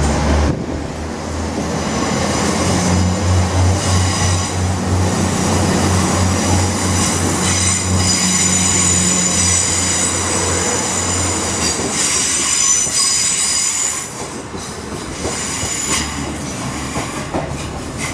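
Diesel train running over the rails with a low engine drone and a high, steady wheel squeal. The squeal eases off about 14 seconds in.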